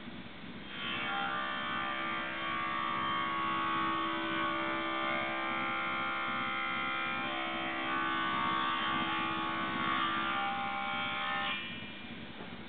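A small electric power tool motor running steadily with a whine for about eleven seconds, starting and stopping abruptly.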